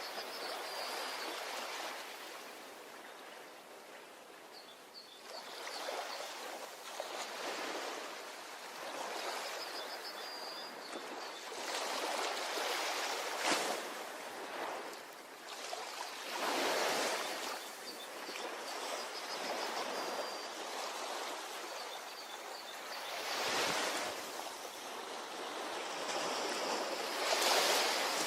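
Ocean surf washing onto a beach, swelling and falling back every few seconds, with a few stronger waves breaking. Faint high chirping trills recur now and then.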